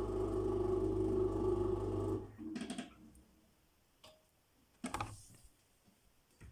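Samsung washing machine running with a steady hum that cuts off about two seconds in, followed by a few short clicks and a clunk. The machine is struggling with a load it cannot balance properly for the spin.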